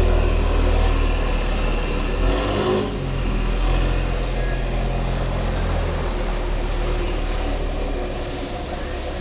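BMW F800GS parallel-twin motorcycle engine running on the road under a haze of road noise. The engine note breaks and shifts about two and a half seconds in, as at a gear change. It drops away after about six seconds as the bike eases off.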